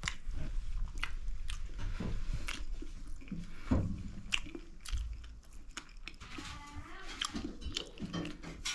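Close-miked chewing of a mouthful of dal and rice, with irregular wet mouth clicks and smacks.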